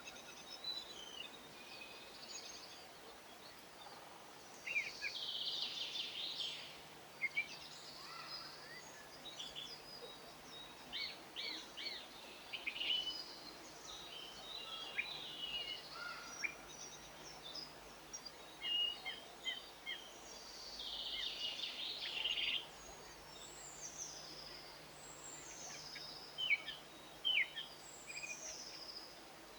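Small garden songbirds chirping and twittering: short high calls scattered throughout, with two denser bursts of chatter about five seconds in and about twenty seconds in.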